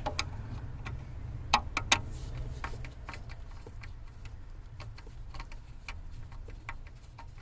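Light, irregular clicks and ticks of a Torx driver working tight T20 screws out of a plastic steering-column cover, with two louder clicks about one and a half to two seconds in, over a steady low hum.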